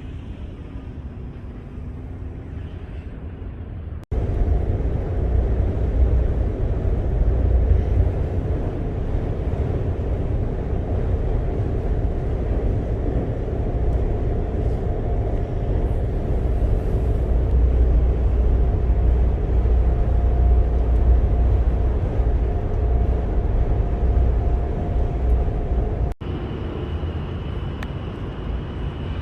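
Deep, steady rumble with a droning hum from a passenger ferry's engines. The sound jumps abruptly twice, about four seconds in and near the end, and a high steady whine joins it in the last few seconds.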